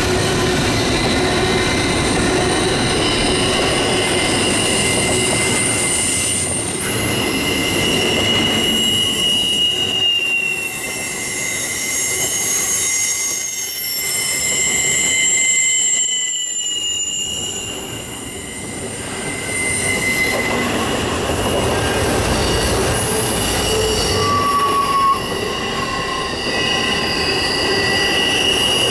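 Double-stack intermodal well cars rolling past on a curve: the steady rumble and clatter of the wheels on the rails, with wheel flange squeal on the curve coming and going as high, drawn-out whines that slide in pitch.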